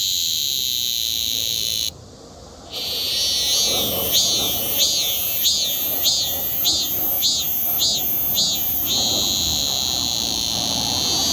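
Cicadas singing: a loud, steady high-pitched drone with a rhythmic pulsing phrase of about one and a half pulses a second. The song cuts out for under a second about two seconds in, then returns.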